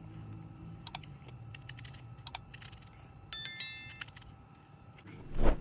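Light scattered clicks and clinks of hard objects being handled, then a short bright metallic ring a little past the middle, and a loud dull thump near the end.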